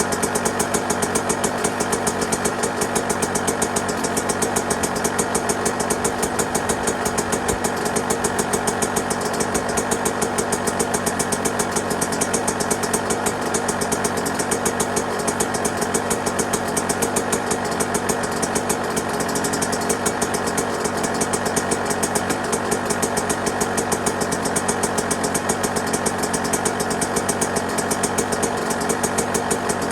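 Yamaha YZ125's single-cylinder two-stroke engine idling steadily, a fast even train of firing pulses.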